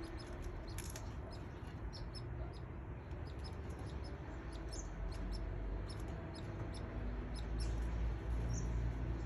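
Young canaries peeping faintly: many short, high chirps scattered irregularly, over a low steady rumble that swells slightly near the end.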